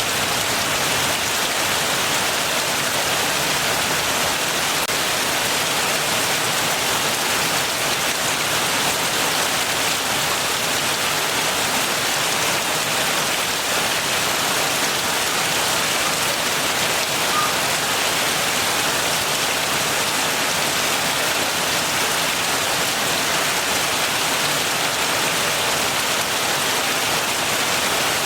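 Steady heavy rain falling, an even hiss of dense rain with no let-up and no thunder.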